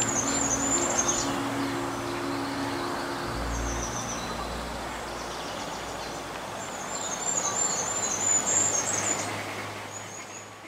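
Birds chirping in short, high warbling phrases, once near the start and again about seven to nine seconds in, over a steady low background hum; everything fades out near the end.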